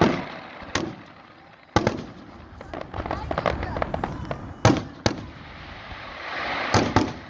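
Fireworks finale: aerial shells bursting in quick succession, about seven sharp bangs with a run of rapid crackling in the middle.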